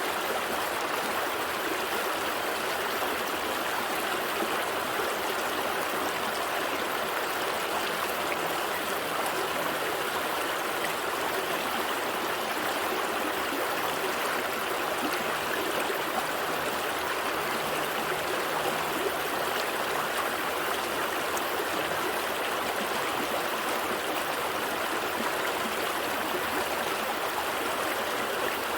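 Gentle stream flowing steadily, an even rush of water with small gurgles and trickles.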